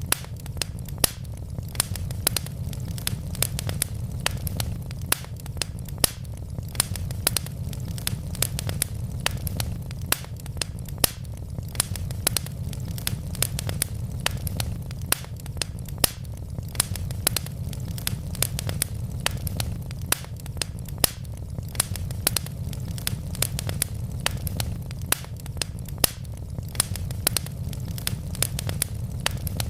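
Wood logs burning in a fireplace, crackling with many sharp pops and snaps, several a second, over a steady low rumble.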